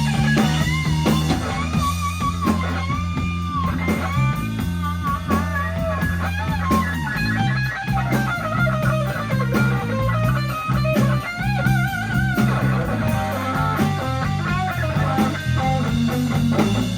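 Blues band playing an instrumental break: a lead guitar solos with bent, wavering single notes over bass and drums.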